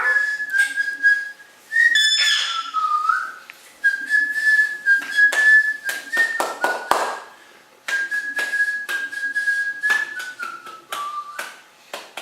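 Whistling in long held notes at one steady pitch, with short sliding bends and brief pauses between phrases, over a scatter of sharp clicks and taps.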